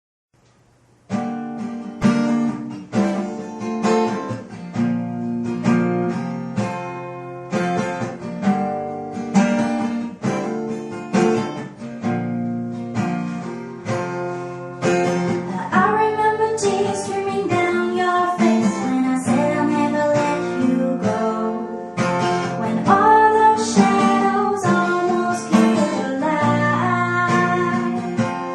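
Acoustic guitar starts about a second in, playing chords in a steady rhythm. Partway through, a singing voice comes in over it.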